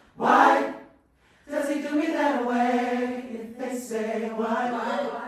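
Choir singing a cappella: a short sung phrase, a pause about a second in, then a long held phrase with the pitch wavering.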